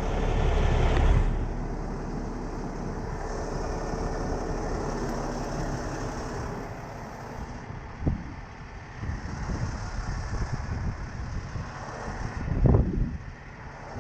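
Heavy truck engine running, louder for the first second, with a sharp knock about eight seconds in and a brief loud surge near the end.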